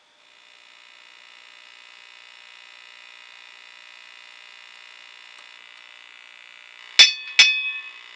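Steady electronic hum made of several high tones, fading in at the start, then two sharp clicks with a short ring about seven seconds in.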